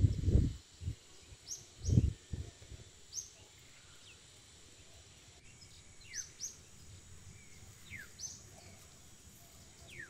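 Birds calling outdoors: repeated short high chirps and a few quick falling whistles. There are two loud low thumps, one right at the start and one about two seconds in.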